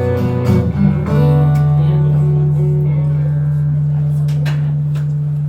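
Live band playing the end of a pop song: a few last moving notes in the first second, then a final chord with a low note held and left to ring steadily.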